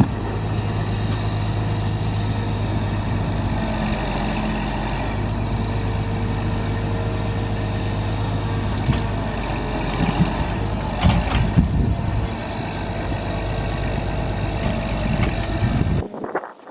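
Heavy truck engine running steadily, with a few knocks and rattles about ten to twelve seconds in. The sound cuts off abruptly near the end.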